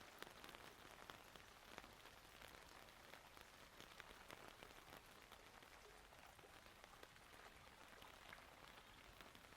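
Rain falling steadily: a faint, even hiss dotted with many small, irregular drop ticks.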